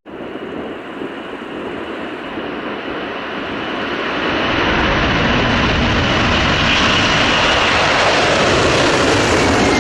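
Aircraft engine sound: a steady rushing noise that starts abruptly, grows louder over the first few seconds, then holds level and cuts off suddenly.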